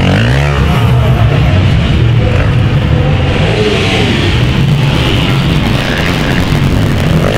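Several 500cc motocross bikes racing, their engines revving up and down over one another in a continuous loud mix of engine noise.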